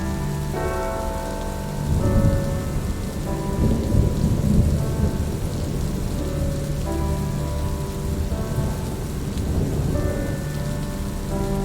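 Steady rain falling, with a low rumble of thunder building about two seconds in and fading by about five seconds. Soft sustained music chords, shifting every second or two, play over the rain.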